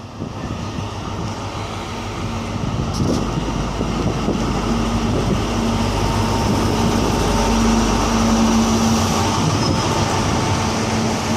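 Diesel train running at the platform, a steady low engine drone with a held hum that grows gradually louder.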